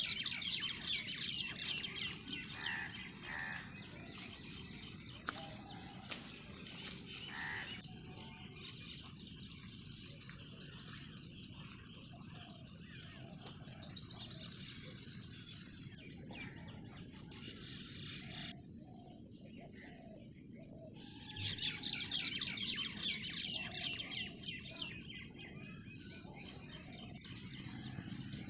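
Wild birds chirping and calling over a steady high-pitched drone of insects, with a low background hiss; the mix changes abruptly several times.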